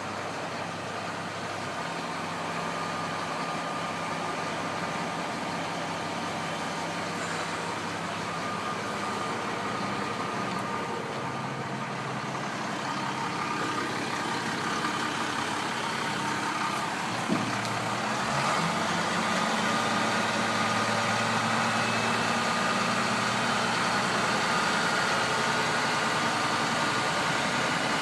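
International DT466 inline-six diesel engine of a 1993 International 4900 dump truck running steadily, with a short knock about two-thirds of the way through, after which it runs a little louder.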